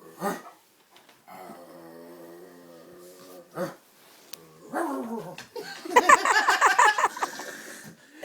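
Big dog vocalizing in rough play: one long, steady pitched call, then a louder run of quick barks and growls about six seconds in.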